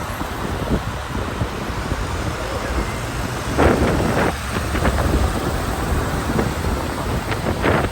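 Street noise in the rain: wind rumbling on the microphone over the hiss of traffic on a wet road, with a few brief louder rushes about halfway through and again near the end.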